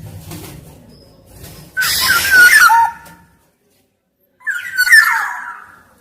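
Black-naped oriole (kepodang emas) calling twice: each call is a short run of fluty whistled notes sliding up and down, laid over a harsher, rasping sound, and the second call falls in pitch.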